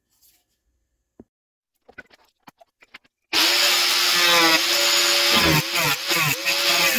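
A few faint clicks of handling, then about three seconds in a power tool starts suddenly and runs loudly, its hum dipping in pitch and level several times as it bears on the work.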